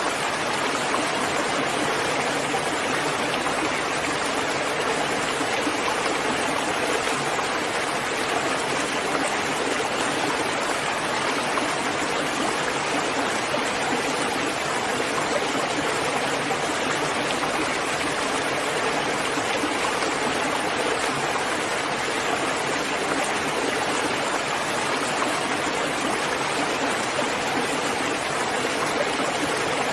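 Steady, heavy rain falling, an even unbroken hiss with no single drops or other events standing out.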